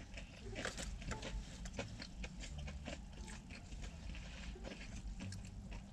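Chewing of crispy fried chicken tenders close to the microphone: a quiet, irregular run of crunches and mouth clicks.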